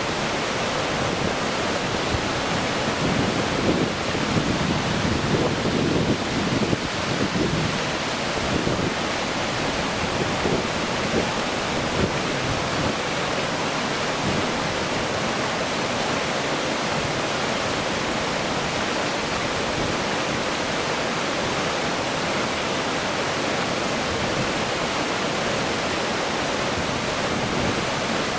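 Steady rushing of running water, louder and more uneven for a few seconds not long after the start.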